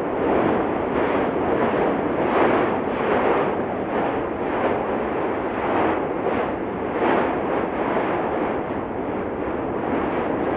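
Cumbre Vieja volcano erupting: a continuous rushing rumble that pulses in quick surges, about one or two a second, like a rapid run of blasts from the vent.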